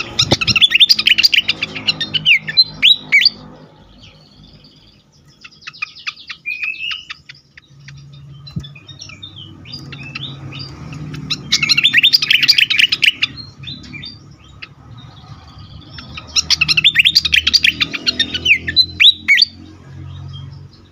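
Fantail flycatcher (sikatan kipas) singing agitatedly in three loud bursts of rapid, jumbled chirps and trills: at the start, about halfway through and near the end, with scattered quieter notes between. A low hum runs underneath from about a third of the way in.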